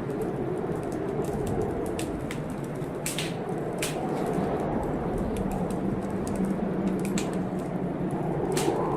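Wood fire crackling in a fireplace, with irregular sharp pops about once or twice a second, over the steady rushing noise of a storm.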